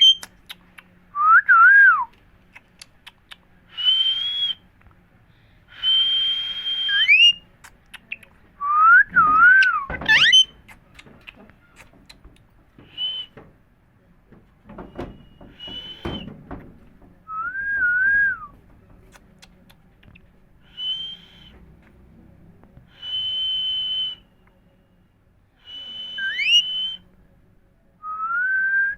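Indian green parrot whistling a string of short notes with brief pauses between them. Some notes are held level and high, others are lower and wavering, and a few slide upward. A few sharp knocks come in between.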